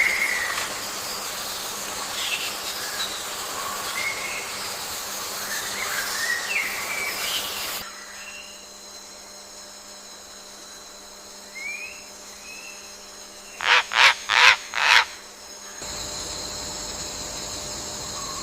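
Wild birds chirping over a steady outdoor hiss, in segments that change abruptly twice. About two-thirds in come four loud, short sounds in quick succession, and the last part carries a steady high-pitched drone.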